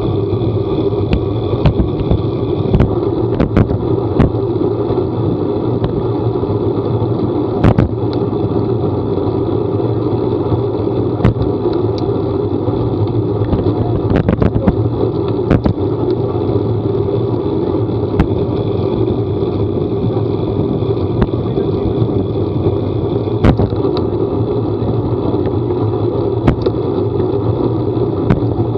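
A vehicle running steadily on the move, a constant drone with scattered sharp ticks every second or so.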